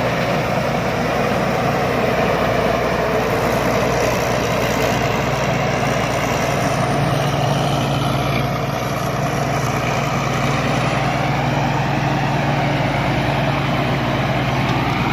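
Rice combine harvester's diesel engine running steadily, a loud continuous machine drone.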